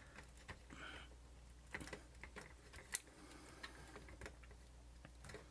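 Near silence over a low hum, with faint, irregular small clicks and taps of a wire lead being worked into place inside a camcorder body, about half a dozen spread through.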